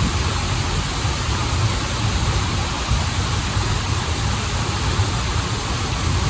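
Waterfall water rushing steadily, a deep rumble beneath a constant bright hiss.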